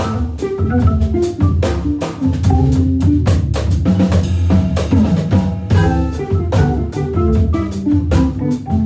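A jazz-funk organ trio playing live: a busy drum kit with many sharp hits drives under sustained Hammond B3 organ notes and chords played through a Leslie speaker, with guitar.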